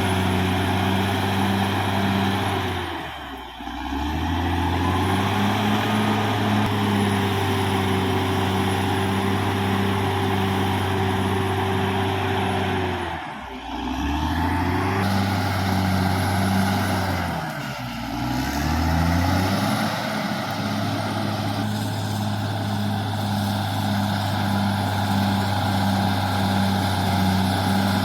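Caterpillar D6R XL bulldozer's diesel engine running steadily under work, with a high whine above it. Its note briefly drops and comes back up three times: a few seconds in, about halfway, and again a few seconds later.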